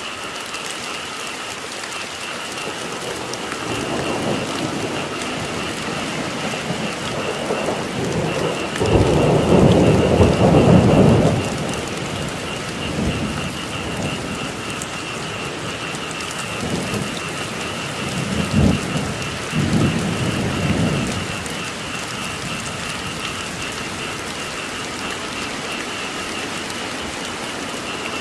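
Steady rain with rolling thunder: a deep rumble swells about four seconds in, peaks loudest around ten seconds, and comes back in shorter rolls near eighteen to twenty-one seconds. A steady high trilling chorus of frogs runs under the rain.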